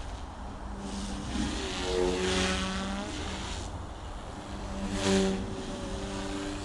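Goosky S1 collective-pitch RC micro helicopter in flight: the electric motors and rotors whine steadily, shifting in pitch with throttle. The sound swells louder twice, about two seconds in and again about five seconds in.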